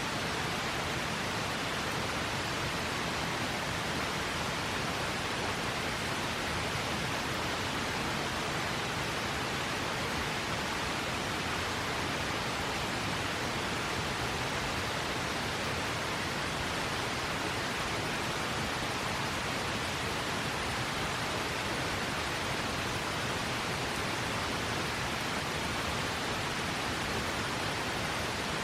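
River water rushing steadily, an even hiss with no change.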